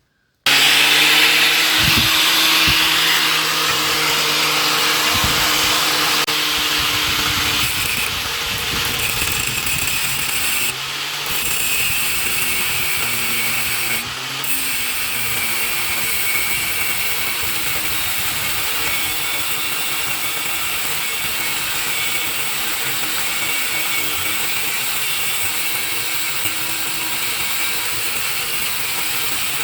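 Electric power tool starting abruptly and running steadily, with a hum that shifts lower about eight seconds in.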